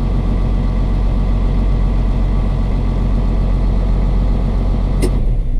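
Case IH MXM175's six-cylinder diesel engine idling steadily. About five seconds in there is a click and the engine is shut off and winds down.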